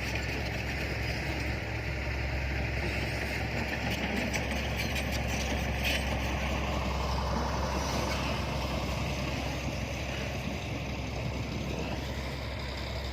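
Dump truck engine running steadily, a continuous low hum with a few faint clicks about four to six seconds in.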